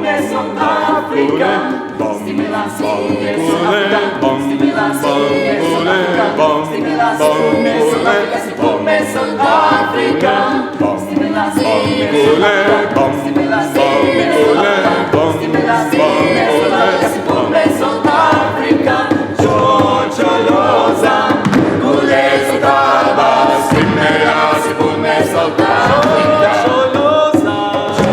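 A vocal ensemble singing a cappella in several parts, with frequent short, sharp clicks running through the singing.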